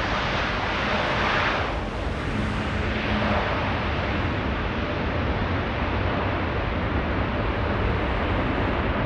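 Jet airliner engine noise, loud and continuous. The high hiss falls away about two seconds in, leaving a steady low rumble as the aircraft moves off.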